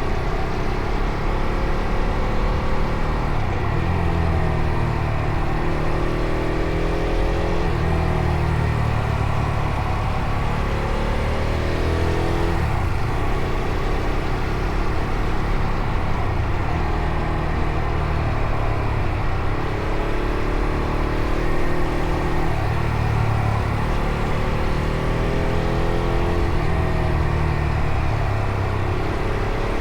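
Fantic Caballero Rally 500's single-cylinder engine running under way, its pitch climbing and then dropping again several times as the bike accelerates through the gears and eases off.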